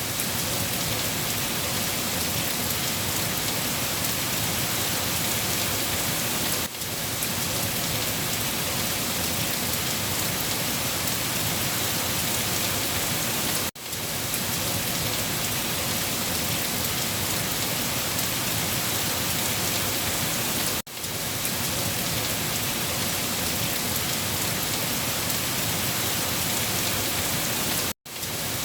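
Steady rain falling, a dense even hiss of drops on a surface. It drops out briefly and suddenly about every seven seconds, four times in all, the last time near the end.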